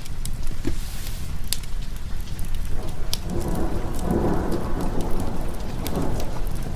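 Steady rain over a low rumble, with a roll of thunder swelling about three seconds in and dying away near the end. Scattered sharp crackles from a wood fire run through it.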